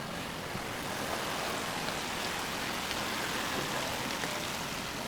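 Steady rain falling on a city street, an even hiss with scattered raindrops ticking.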